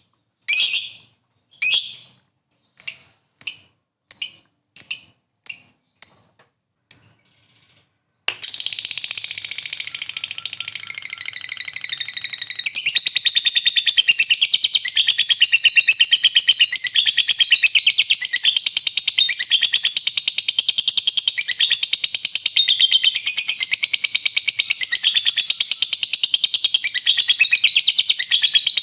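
Lovebird calling: a string of short, sharp high chirps about twice a second that grow fainter. Then, about eight seconds in, it breaks suddenly into a long unbroken rapid chattering trill, the prized 'ngekek panjang' song, which grows louder a few seconds later and keeps going.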